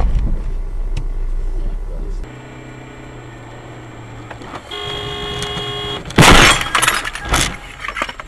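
Car crash: road rumble, then about six seconds in a sudden loud impact of a vehicle collision with crunching and breaking, several hits following over about a second. A steady held tone sounds for a second or so just before the impact.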